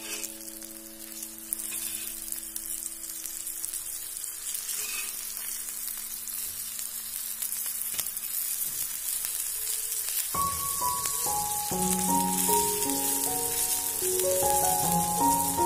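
Raw banana slices sizzling in oil on a flat iron griddle (tawa), with a steel spatula scraping and turning them now and then. Background music with a stepping melody comes in about ten seconds in.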